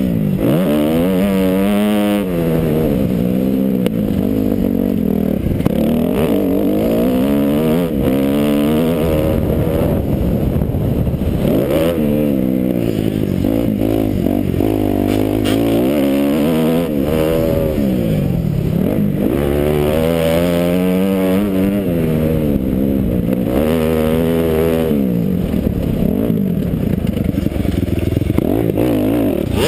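Kawasaki KX250F four-stroke single-cylinder motocross engine revving hard and backing off over and over, its pitch climbing and dropping every few seconds as the bike is ridden around the track, heard from the rider's helmet camera.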